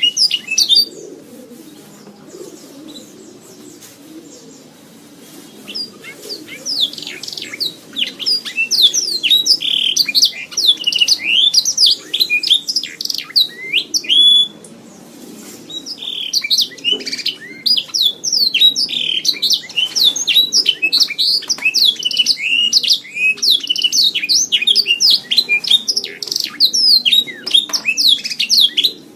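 Domestic canary singing long, fast phrases of rapid chirps and rolling trills, with a pause of several seconds near the start and a short break about halfway through.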